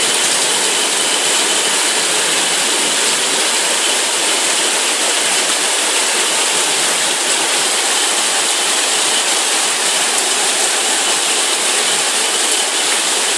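Torrential rain pouring down in a dense, steady hiss that stays even throughout.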